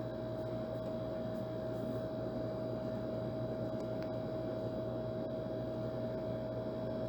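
Old air conditioner running steadily: an even rush of fan and airflow with a low hum and a clear, steady mid-pitched whine over it.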